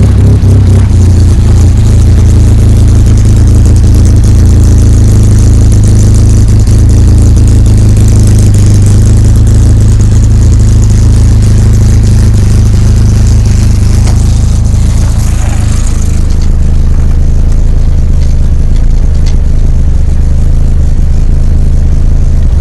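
Porsche 924 race car engine running steadily, loud and close. About sixteen seconds in its sound settles, the high hiss dropping away and the low note steadying.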